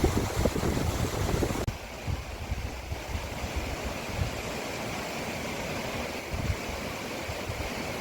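Wind buffeting the microphone with low, gusty rumbles over a rushing outdoor noise. Just under two seconds in, the sound changes abruptly to a steadier, quieter hiss with only occasional gusts.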